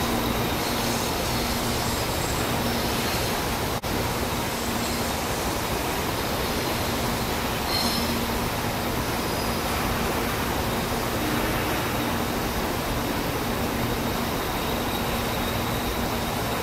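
Shonan-colour 113 series electric train running slowly through the station's curved pointwork, a steady rumble of wheels on track with brief high wheel squeals about a second in and again about eight seconds in. The sound drops out for an instant just before four seconds.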